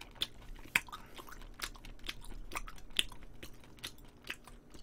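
Close-miked mouth chewing a mouthful of braised short ribs: wet smacks and irregular sharp clicks, a few to several a second.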